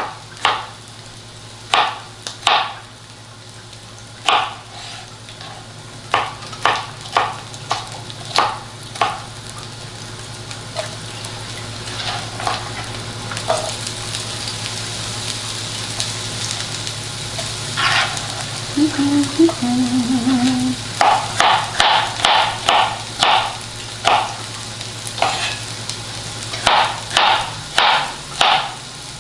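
Bell peppers sizzling in hot olive oil in a nonstick skillet, with a knife chopping more peppers on a cutting board in sharp single strokes. The sizzle grows louder about halfway through as more pieces go into the pan, and the chopping turns into a quick, steady run near the end.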